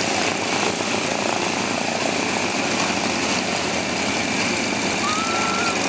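Propeller aircraft engines running steadily, a constant dense drone with a faint high whine over it.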